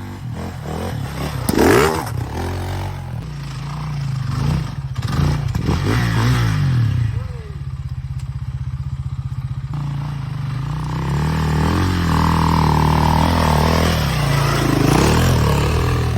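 Enduro dirt bike engines revving up and down under load, with clattering from the bikes. There is a sharp loud rev about two seconds in and steadier, louder running near the end.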